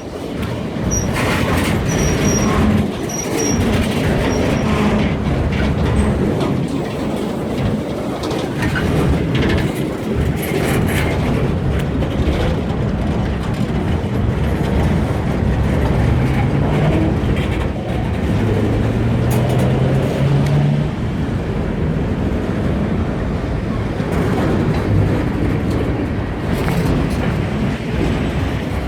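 Freight train cars rolling past on the track: a steady, loud rumble of wheels on rail with clacking, and a few brief high wheel squeals in the first seconds.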